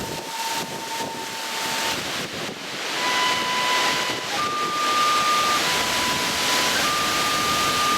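Strong wind buffeting the microphone, with a high bamboo festival flute playing long held notes that step up and down between a few pitches.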